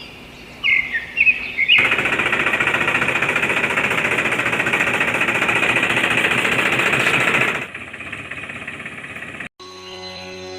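A small power tool running with a fast, even rattling buzz for about six seconds, then dropping to a quieter level before cutting off. Birds chirp just before it starts.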